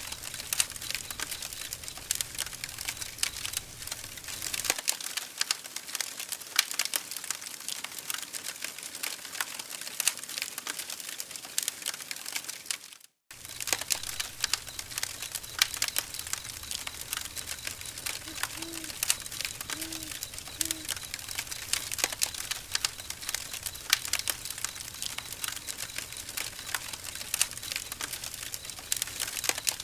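Campfire burning wood and crackling, with a steady run of dense, irregular snaps. The sound cuts out for a moment about 13 seconds in.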